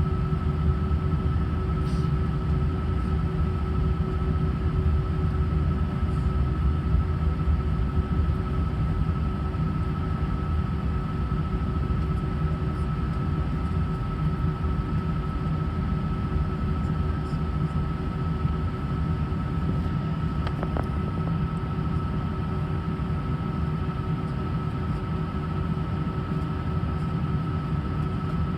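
Steady cabin noise inside an Airbus A319 airliner: a low rumble with a constant whine above it.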